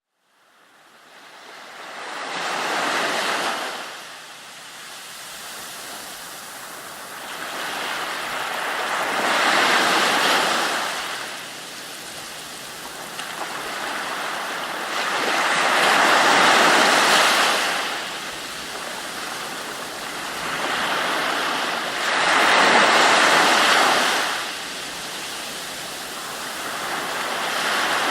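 Ocean waves breaking on a shore, each surge swelling and ebbing about every six to seven seconds, fading in from silence at the start.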